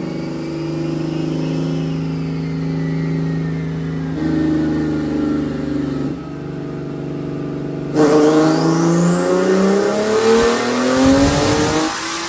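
Nissan 370Z's turbocharged 3.7-litre V6 running steadily on a chassis dyno, then about eight seconds in going to full throttle for a dyno pull at about 13–14 psi of boost. The engine note climbs steadily through the revs, with a high whine rising along with it.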